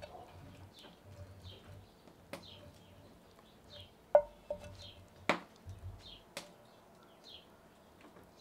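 A small bird chirping over and over, short high falling notes about twice a second, with a few sharp clicks and knocks, the loudest about four seconds in with a brief ring.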